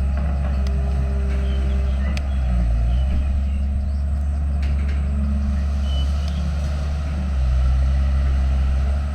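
Diesel engine of a heavy earthmoving machine running, its note shifting a couple of times as the load changes, with a few faint clicks.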